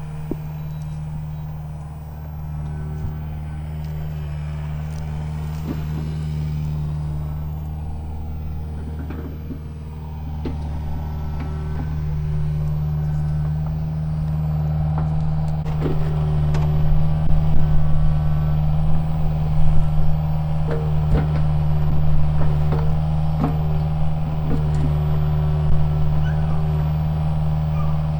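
A vehicle's engine running at a steady low drone, slowly getting louder, with scattered light clicks and knocks.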